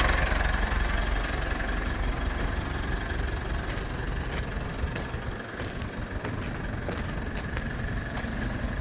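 Mitsubishi 4N15 2.4-litre four-cylinder turbo-diesel engine running steadily at idle, a little quieter just after the start as it settles from a louder moment.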